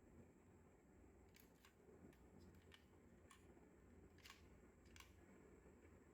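Faint, sharp clicks and taps, about six scattered over several seconds, of small diecast model cars being handled, over a low steady hum.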